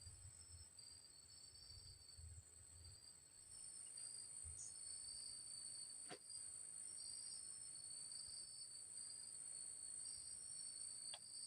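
Faint chorus of insects: a steady high-pitched buzz with rhythmic pulsed chirping beneath it. Two faint clicks sound, one around the middle and one near the end.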